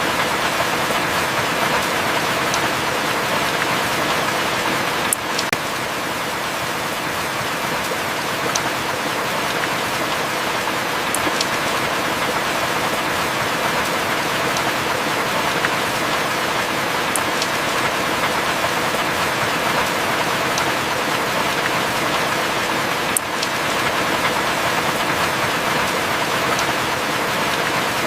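Heavy rain falling steadily, with a few sharp single drop ticks now and then.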